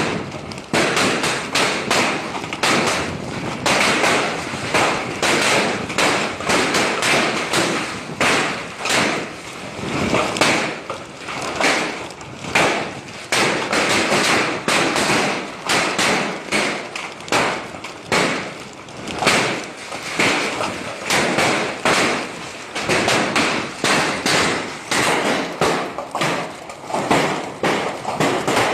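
Hailstorm: hailstones and heavy rain pelting down, a dense, irregular clatter of knocks and thuds over a steady hiss of rain.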